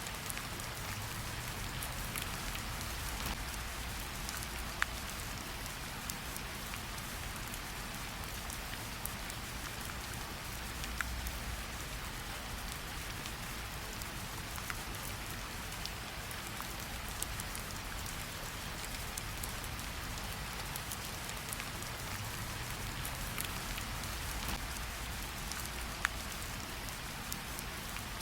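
Gentle rain pattering steadily on tree leaves, with scattered louder single drops falling through it.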